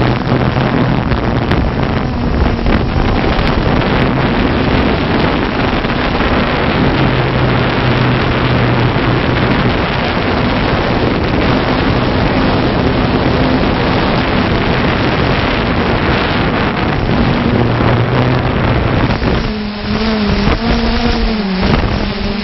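Camera drone's rotors running: a steady motor hum over loud rushing noise, its pitch stepping up and down now and then and wavering near the end.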